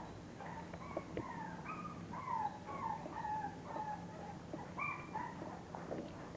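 A litter of English bulldog puppies whimpering: many short, high whines, several falling in pitch, overlapping one another.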